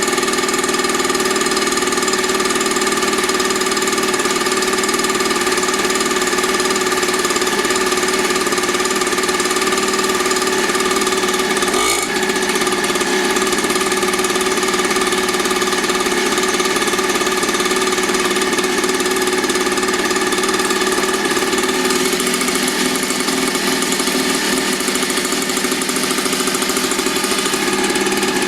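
50cc two-stroke mini dirt bike engine idling steadily, with a brief blip about twelve seconds in.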